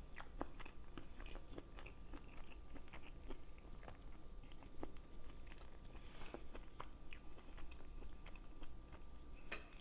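Close-miked eating sounds: soft, scattered mouth clicks and smacks of chewing, with a few crunchier bites.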